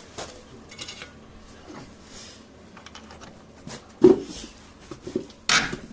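Hand tools working on a car's subframe bolts from underneath: scattered small metallic clicks and scrapes, a single loud knock about four seconds in, and a short rasping burst near the end.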